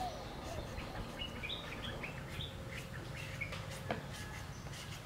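Small birds chirping, with a run of short high calls through the middle, over a low steady rumble. A sharp scraping click about four seconds in comes from a blade shredding green papaya.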